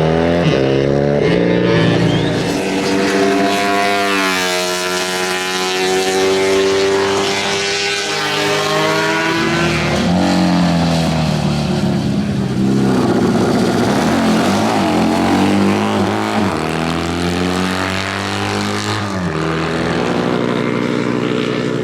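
Racing motorcycles running on the circuit, their engines revving up through the gears and easing off as they go past, with several rises and falls in pitch.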